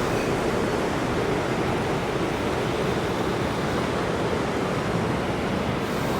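Ocean surf washing on the beach: a steady rushing noise with no distinct breaks.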